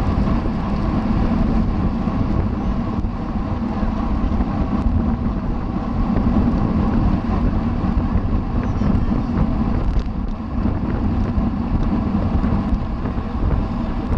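Steady wind rushing over the microphone of a camera riding on a racing bicycle at speed, with road and tyre noise underneath.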